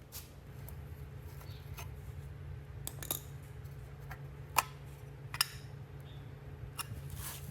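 Scattered sharp clicks and light taps, typical of small metal parts and tools being handled, over a steady low hum. The two loudest clicks come about four and a half and five and a half seconds in.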